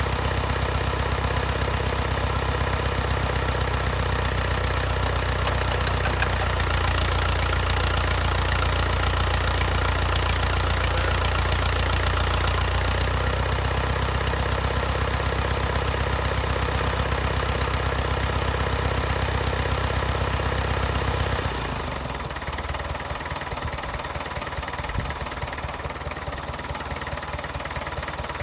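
1967 International Harvester B275's four-cylinder diesel engine running steadily with diesel clatter. About three-quarters of the way through it drops suddenly to a quieter, lower run.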